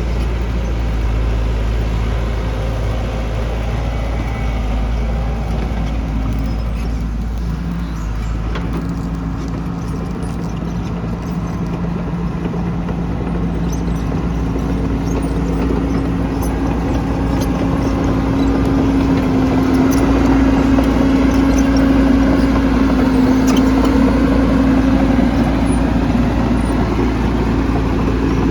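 Engine of a heavy construction machine running steadily, pulling harder and a little louder about two-thirds of the way through, as under load.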